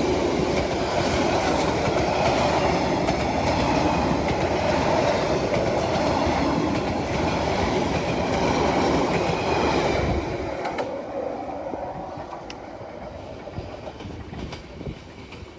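Train led by a D19E diesel-electric locomotive rolling past as it departs, wheels clacking over the rail joints. The rumble stays loud and steady for about ten seconds, then fades away as the train moves off.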